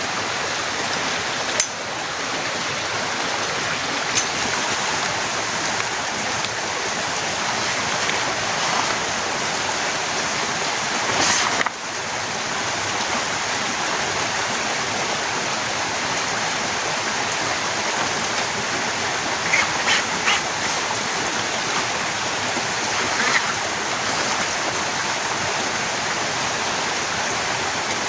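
Torrential rain pouring down in a steady, heavy hiss. A few sharp taps stand out above it, and a brief louder gust comes about eleven seconds in.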